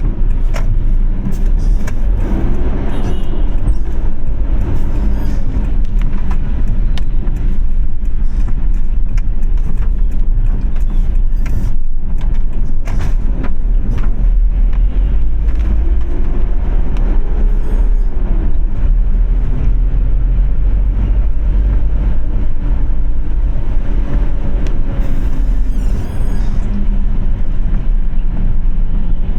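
Car driving in rain-soaked city traffic: a loud, steady low road rumble, with the pitches of other vehicles' engines rising and falling as they pass, and scattered sharp taps.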